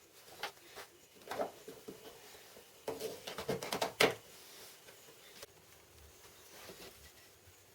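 Scattered light knocks and clicks of small objects being handled, with a quick cluster about three seconds in and the sharpest knock near four seconds. No saw or motor is running.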